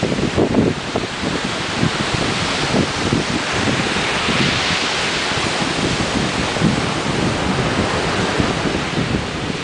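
Ocean surf breaking and washing on the shore: a continuous rushing that swells about halfway through, with wind buffeting the microphone underneath.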